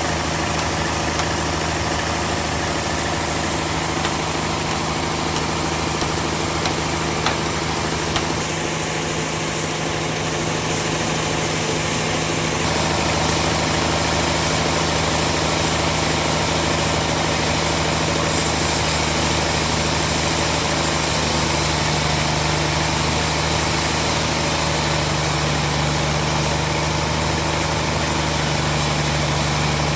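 Sawmill bandsaw machinery running steadily with a deep motor hum, a few faint ticks in the first few seconds. About a third of the way in the sound grows fuller and slightly louder, and a higher hiss joins a few seconds later.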